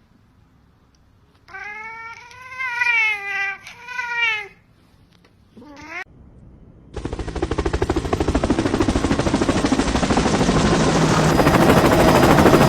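A cat meows several times, with one short rising call near the end of the meowing. About seven seconds in, a loud, fast rattling noise starts and grows louder.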